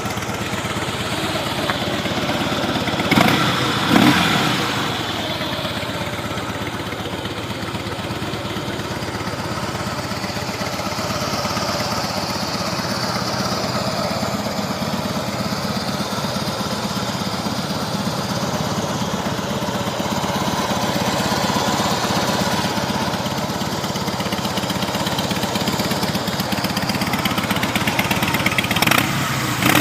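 2007 Harley-Davidson Softail Custom's 96-cubic-inch fuel-injected V-twin idling steadily through its stock exhaust. It gets briefly louder twice a few seconds in and once near the end.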